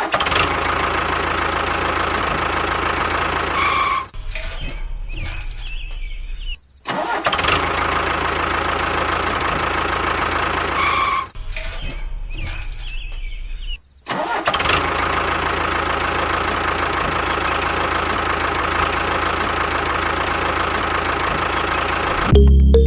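An engine running steadily. It changes and drops out briefly twice, about four seconds in and again about eleven seconds in, then starts again and runs on. Music starts just at the end.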